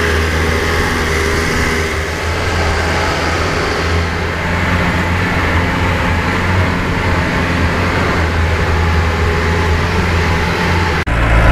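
Truck engine and road noise heard from inside the moving truck: a steady, loud low drone with rattling, unbroken until a brief break near the end.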